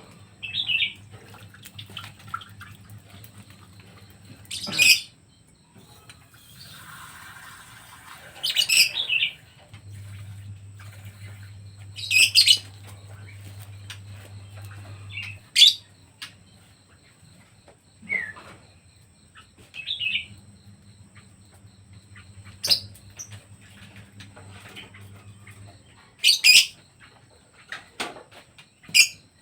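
Pet birds chirping in short, sharp calls every few seconds, with a low hum switching on and off behind them.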